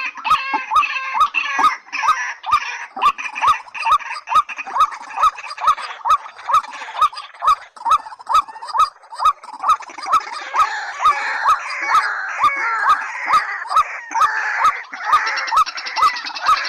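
Recorded calls of rails (white-breasted waterhen and watercock) repeating without pause: a fast run of short hooked notes, about three a second, with busier higher-pitched chatter over them. Sharp clicks sound at an even spacing throughout.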